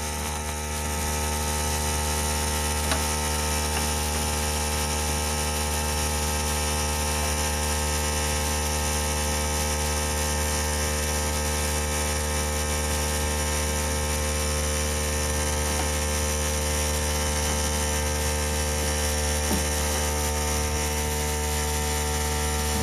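Steady mechanical drone with a strong low hum and several steady tones above it, holding unchanged at one level.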